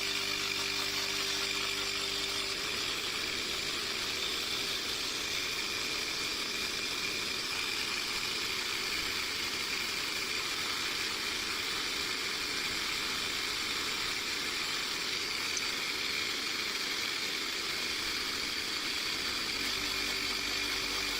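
CYCPLUS cordless electric tyre pump running continuously as its small compressor pumps air through the ball needle into a birthday balloon. It gives a steady motor hum that turns rougher about two and a half seconds in and clears again near the end.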